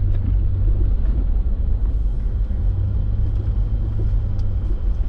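Steady low rumble of a Toyota 4x4 driving slowly over snow-covered road, engine and tyre noise heard from inside the cab.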